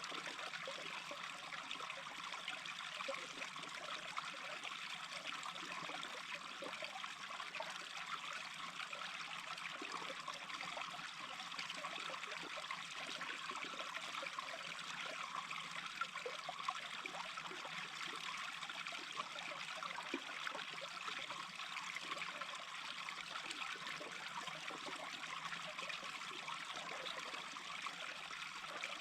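A small brook running with a steady babble and trickle of water.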